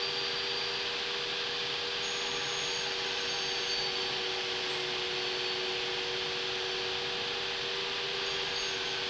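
Workshop power tool running steadily, a constant whirring hiss with two steady hums, while plywood is ripped to width.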